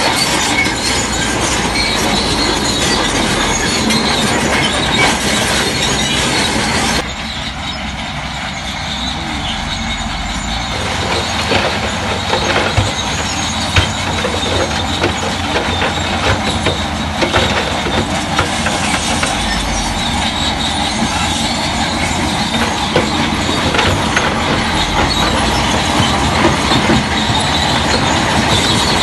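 Crawler bulldozer working, with its diesel engine running under the squeal and clatter of steel tracks. The sound drops abruptly about seven seconds in.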